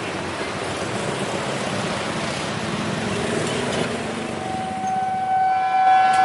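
A train running past with a steady rushing rumble. About four and a half seconds in, a steady horn starts and grows louder.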